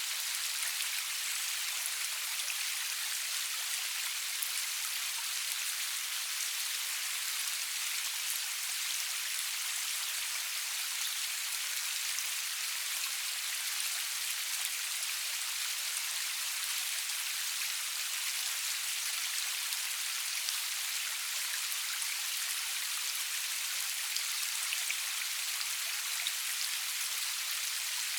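Steady rain falling with no thunder: an even, high hiss with scattered faint ticks of single drops striking a surface.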